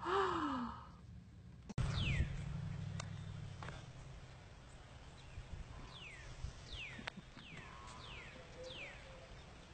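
A brief vocal sound at the start, then a low hum with a series of short, high chirps falling in pitch, most of them close together in the second half, like small birds calling.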